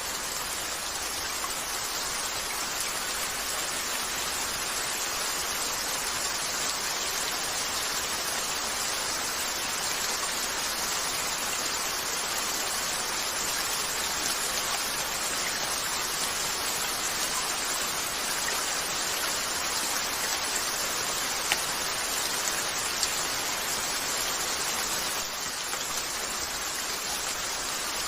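Steady rain, an even hiss, with a couple of small sharp clicks about three-quarters of the way through.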